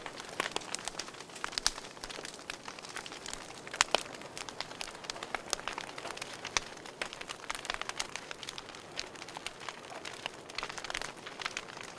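Wood fire burning in a fireplace, crackling with many small irregular pops over a soft steady hiss, a few louder snaps standing out, the loudest just before four seconds in.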